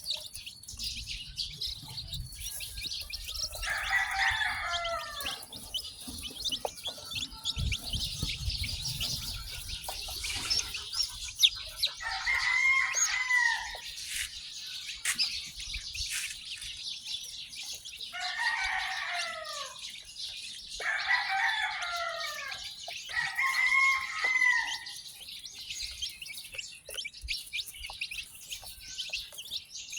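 Newly hatched chicks peeping constantly in a dense high-pitched chatter. About five times a louder, lower call from an adult chicken cuts through, each about a second long.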